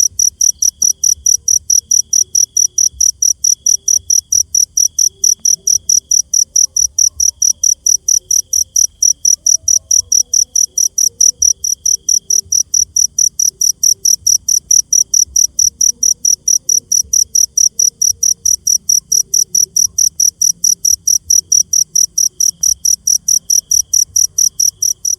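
A cricket chirping loudly and steadily, about three to four high chirps a second. A fainter insect trill comes and goes behind it.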